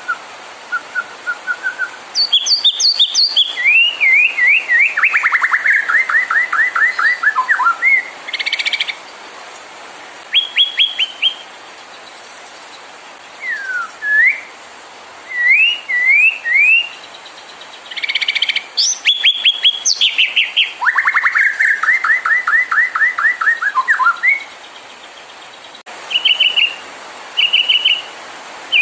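White-rumped shama (murai batu) singing a loud, varied song: clear whistled notes, rising slurs and long fast rattling trills, in bursts with short pauses. It is the excited song used to provoke other shamas into singing.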